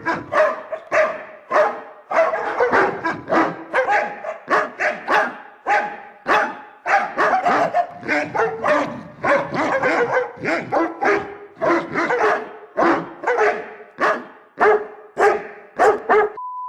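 Several dogs at an animal shelter barking over and over, about two barks a second with some overlapping. A short steady beep comes at the very end.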